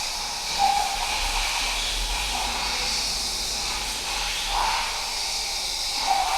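Steady hissing, humming noise of an air compressor running, with a few faint knocks over it.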